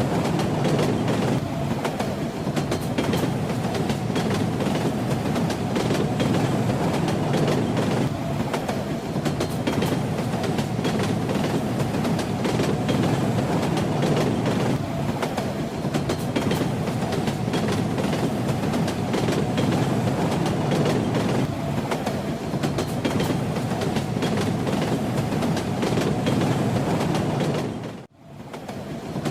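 A train running on the rails: a steady rumble of the wheels with a rattling clatter. Near the end the sound dips out for a moment and comes straight back.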